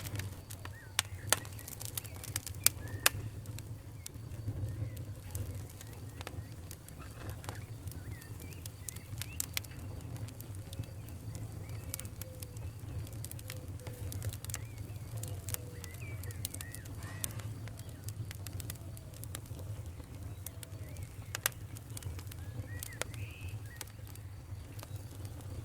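Wood fire in a fireplace crackling, with sharp pops that are loudest in the first few seconds, over a steady low rumble. Faint short squeaky chirps come and go.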